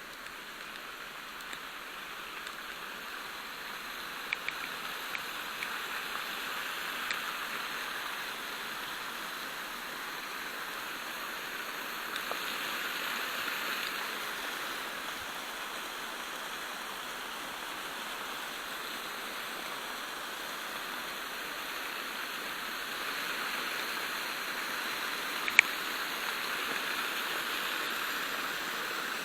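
Flowing water rushing steadily, growing a little louder, with a few light clicks and one sharp click near the end.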